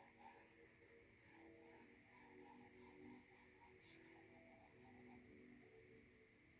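Faint stylus strokes on a tablet's glass screen: a quick run of short, scratchy strokes that stops about five seconds in, with one sharper tap near four seconds.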